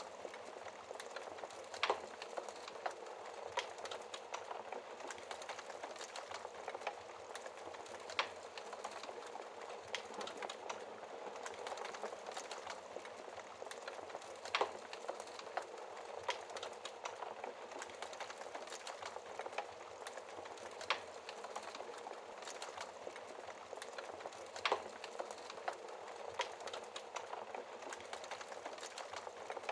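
Wood fire crackling: a steady hiss of burning wood with constant small crackles and a sharper pop every few seconds.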